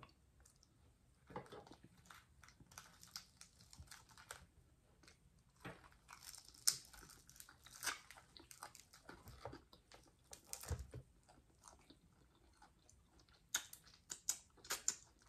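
A person eating fried croaker fish: faint chewing and biting with scattered short crackles, coming thicker near the end.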